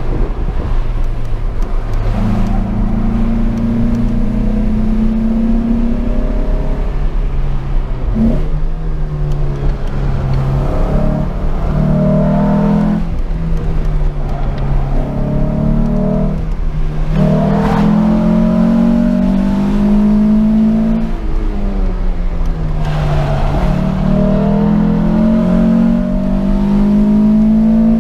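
Citroën ZX 16V's 2.0-litre XU10J4RS 16-valve four-cylinder engine, heard from inside the cabin, pulling hard. Its pitch climbs, drops sharply at each gear change or lift off the throttle, then climbs again, over and over.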